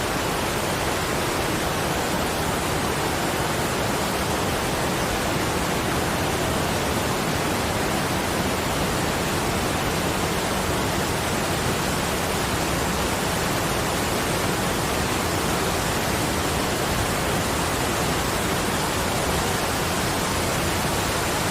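Steady, even rushing noise from a relaxing sleep-sound track, spread evenly from deep to high pitches, with no distinct events or changes.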